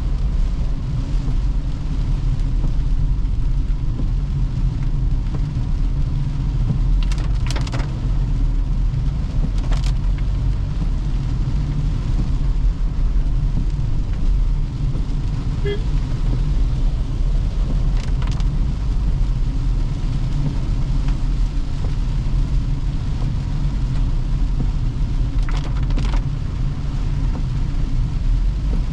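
Toyota Hyryder hybrid SUV driving on a wet road: a steady low rumble of tyres and road, with a few brief knocks spaced several seconds apart.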